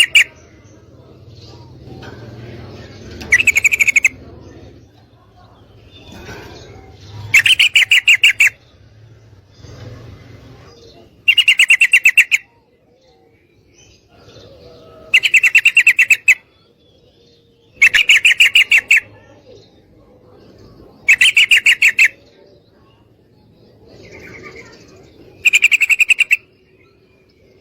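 Female yellow-vented bulbul giving a chattering call: seven loud bursts of rapid, scratchy notes about a second long, repeated every three to four seconds.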